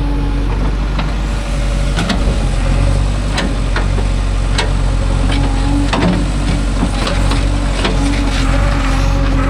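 JCB 3DX backhoe loader's diesel engine running steadily, with a dozen or so sharp knocks and clanks scattered through it.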